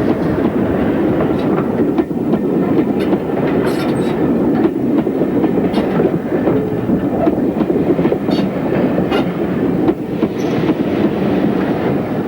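Steam locomotive City of Truro, a GWR 4-4-0, running with its train, a steady rumble with rail-joint clickety-clack and scattered sharp clicks throughout.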